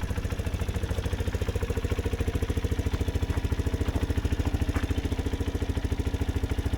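MGB ATX 125cc adventure motorcycle engine idling steadily with an even, rapid beat, running smoothly ("sweet as a nut").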